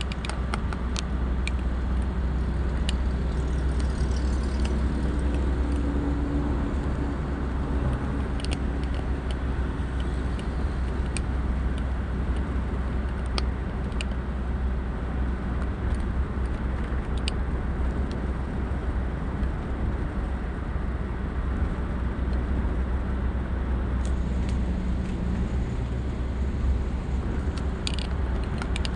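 Steady road and engine noise of a car driving at highway speed, a continuous low rumble with faint scattered ticks.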